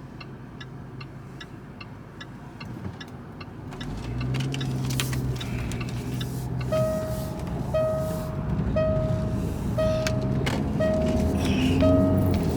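Inside a running car, a turn-signal relay ticks about twice a second. From about seven seconds in, a single-pitch warning chime starts repeating about once a second, the car's seatbelt reminder. The engine and road noise rise from about four seconds in.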